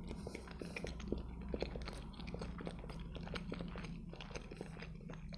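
A man chewing a mouthful of boiled egg, close-miked, with many small irregular mouth clicks.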